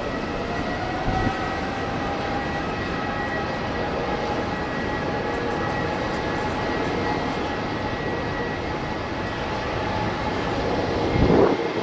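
Boeing 777 jet engines running steadily: a rush of noise with a high whine of several steady tones over it. There is a low thump near the end.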